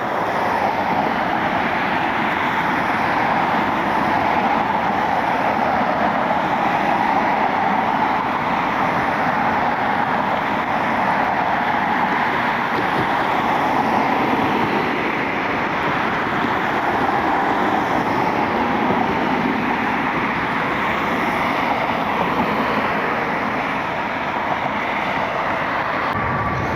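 Steady jet engine noise from an airliner, a continuous roar that holds at about the same level throughout with only slight swells.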